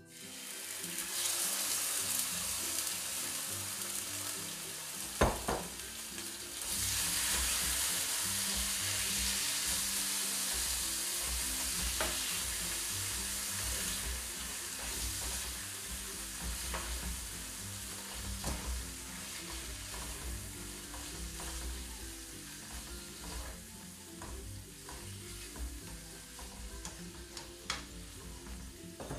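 Marinated chicken sautéing in hot oil in a pan: a steady sizzle, stirred with a utensil that knocks and clicks against the pan now and then. There is a sharp knock about five seconds in, and the sizzle grows louder about seven seconds in, then slowly eases.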